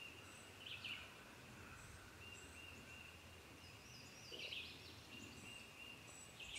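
Quiet woodland near silence with faint bird chirps and calls and a steady faint high-pitched note.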